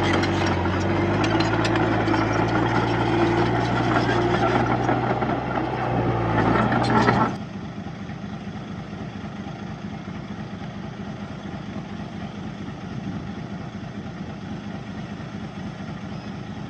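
Heavy diesel engine of earthmoving machinery running hard, with scattered metallic clanks. About seven seconds in it cuts off abruptly to a quieter, steady engine idle.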